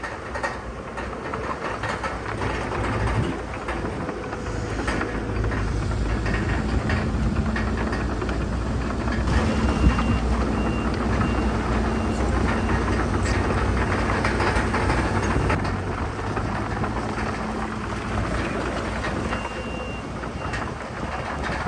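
Heavy diesel earthmoving machinery running under load, with clanking and rattling, a steady low engine drone and a noisy rumble. Partway through, and again near the end, a reversing alarm gives a run of short repeated beeps.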